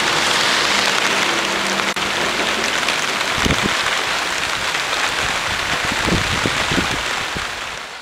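Steady rain, with a few low thumps in the second half. The sound fades out near the end.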